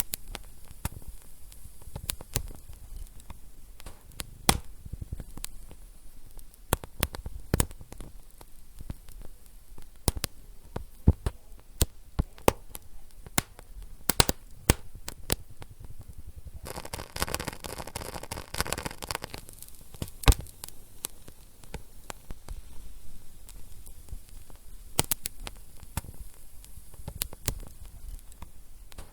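Wood fire in a fireplace crackling, with many sharp pops at uneven intervals over a soft low rumble. For a couple of seconds about two-thirds of the way through, a denser hiss rises among the pops.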